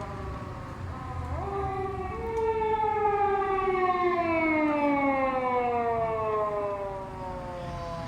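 Japanese police car siren wailing. It rises in pitch about a second in, then slides slowly down while it is at its loudest, as a patrol car passes.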